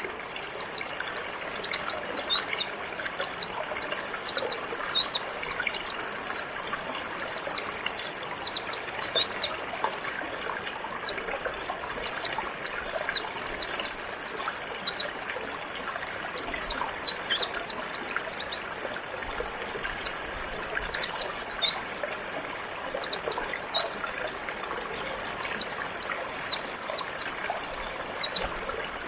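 A white-eye (pleci) singing in repeated bouts of fast, high, falling chirps every few seconds, over the steady rush of a flowing river.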